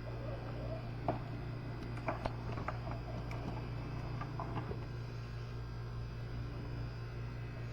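Light clicks and taps of hand-tool work, scattered through the first five seconds, over a steady low hum.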